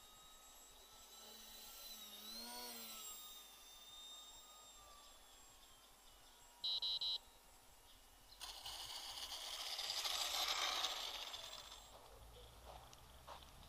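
FPV quadcopter's electric motors whining faintly, the pitch bending up and down. Halfway through comes a short burst of three quick beeps, then a loud rush of hissing noise lasting a few seconds.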